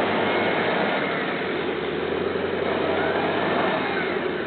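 V8 engine, taken from a GAZ-66, running steadily at low revs in a UAZ off-roader, with a faint whine rising and falling over it.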